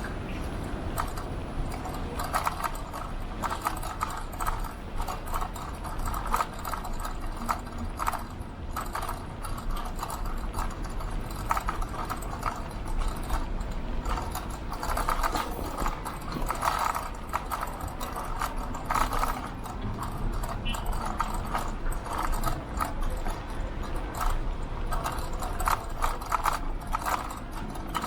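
Riding an electric bike: wind rumbling on the microphone with an irregular clattering of the bike rattling over the road surface.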